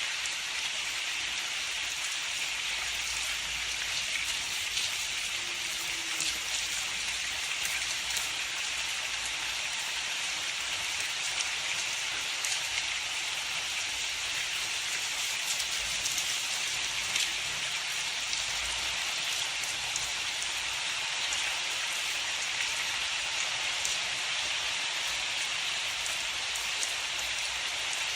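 Steady rain falling, an even hiss of water with many small drop ticks and no change in strength.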